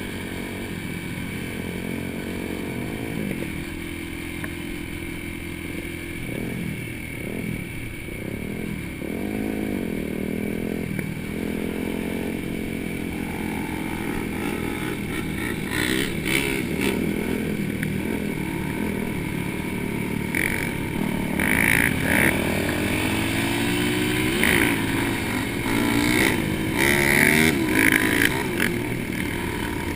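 Several dirt-bike engines revving up and down with overlapping, changing pitches, louder in the second half.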